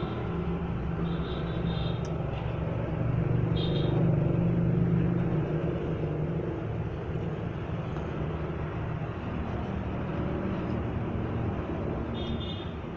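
Steady rumble of vehicle and road traffic noise, swelling slightly about four seconds in, with a few short high chirps.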